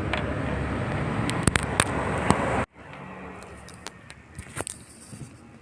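Yamaha RX-King's 135cc two-stroke single-cylinder engine running steadily, with a few sharp clicks. It cuts off suddenly about two and a half seconds in, leaving a much quieter background with scattered clicks.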